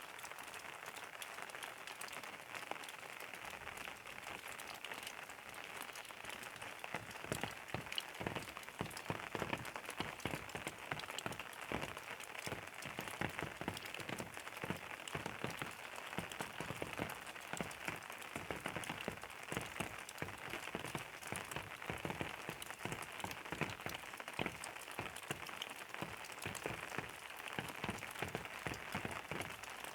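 Steady rain, with many close drops pattering and tapping on a surface; the drops grow louder and denser about seven seconds in.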